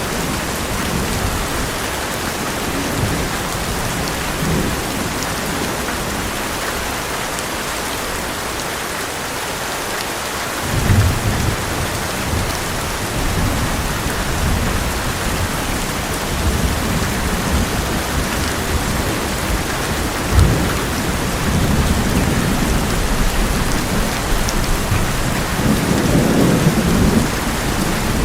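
Heavy rain falling steadily on an old metal roof, with rolling thunder. The low rumble fades out for a few seconds and breaks in again sharply, followed by one sudden crack and a swelling rumble near the end.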